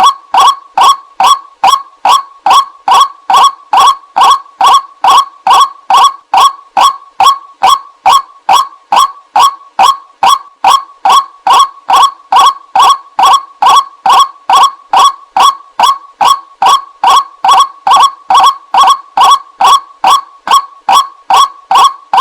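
White-breasted waterhen's call played as a lure recording: loud, short, nasal calls repeated evenly about three times a second without a break.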